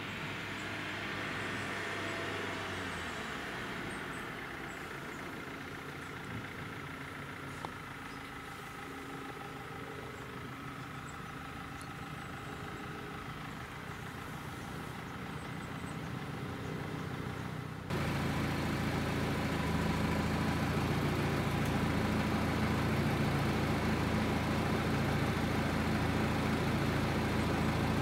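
Road vehicle engines idling steadily. About two-thirds of the way in, the sound suddenly becomes louder and fuller in the low end, as an engine idles close by.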